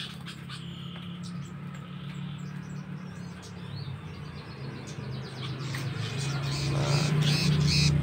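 Small caged birds giving rapid, harsh chirping calls while a hand reaches into the cage to catch one. The calls come faster and louder toward the end. A steady low hum runs underneath.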